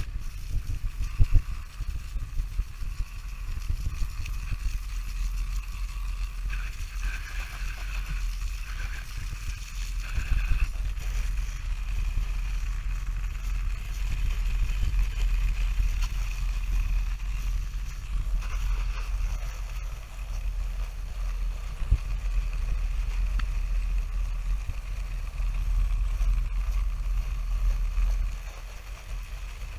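Pressure washer's engine running steadily, with water spraying.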